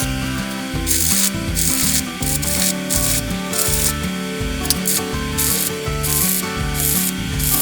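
Rhythmic back-and-forth rubbing strokes, about two a second, like hand sanding or filing, over background music with steady tones and a pulsing bass.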